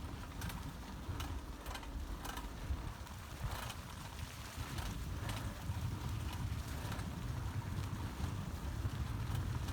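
Bicycle being ridden: a steady low rumble of tyres and wind, with irregular sharp clicks and rattles about once or twice a second.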